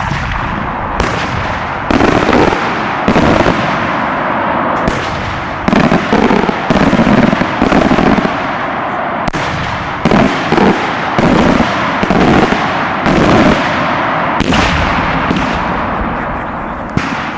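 Large aerial firework shells bursting in rapid succession, multi-break shells firing one break after another: sharp booming reports over a continuous crackle. It starts suddenly, with clusters of bangs throughout, and thins out near the end with one last report.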